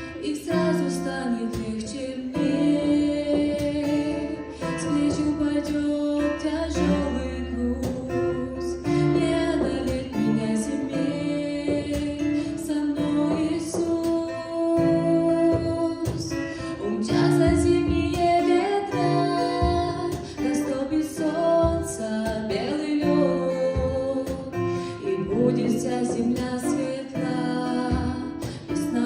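Acoustic guitar playing an instrumental interlude of a slow hymn, plucked and strummed.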